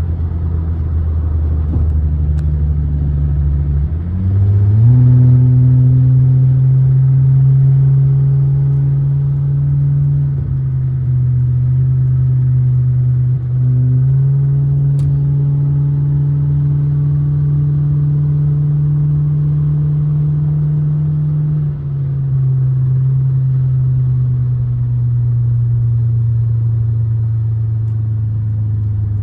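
A 2006 Honda Accord's engine running steadily. Its note rises about four seconds in, holds with a couple of brief dips, and drops back a little past twenty seconds, as when accelerating and then easing off.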